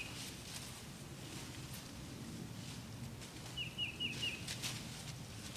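A bird calls a quick run of four short chirps about three and a half seconds in. A few soft scuffs, like steps in leaves, and a steady low background rumble run underneath.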